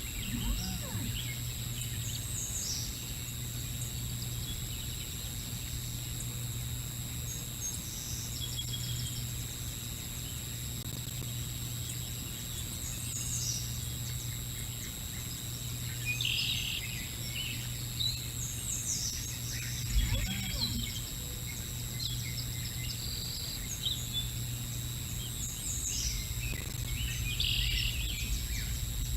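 Birds chirping and calling in short, high-pitched snatches, on and off, over a steady electrical hum and outdoor background noise. There is a single low thump about twenty seconds in.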